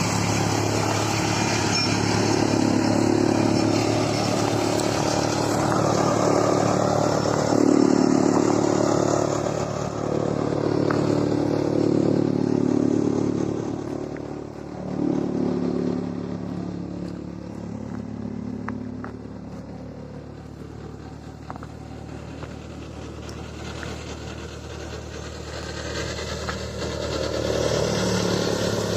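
Tractor diesel engine running hard, steady and loud, then easing off about halfway through and building up again near the end.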